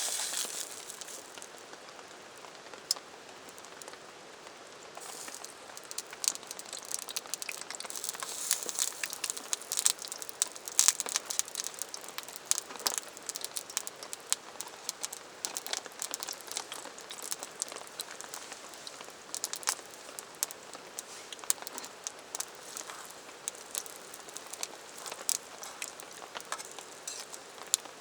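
Steady rain hiss with many sharp crackles and clicks, thickest from about five to sixteen seconds in.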